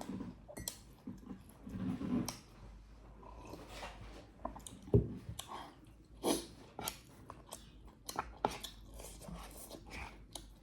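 A person chewing a mouthful of rice and chicken curry, with irregular wet mouth clicks and smacks; one sharp click about five seconds in is the loudest.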